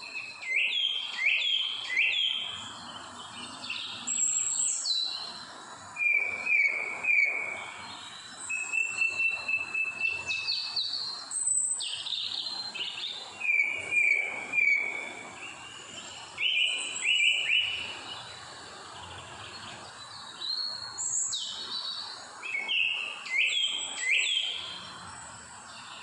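Birds singing: phrases of three or four short, down-slurred whistled notes, repeated every few seconds, with higher thin notes in between, over a steady background hiss.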